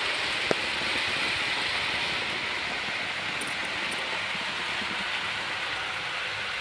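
Hornby 00 gauge model train running on the layout track: a steady rushing noise, with a single sharp click about half a second in.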